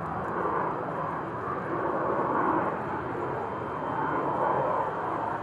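Panavia Tornado fighter jet's engines heard as a steady, rushing jet noise with a low rumble beneath.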